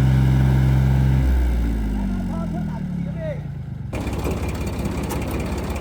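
An engine running steadily is shut off a little over a second in, its pitch falling as it winds down. About four seconds in the sound changes abruptly to a rougher, noisier running sound, with a few short calls.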